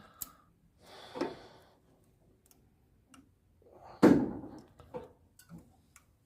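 Scattered light metallic clicks and a sharper knock about four seconds in: brake pads and caliper parts being worked and pushed into place by hand, a pad that will not seat easily.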